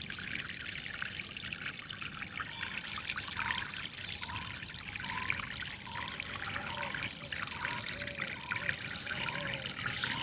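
Water trickling and flowing steadily. From a few seconds in, a bird repeats a short note roughly once a second.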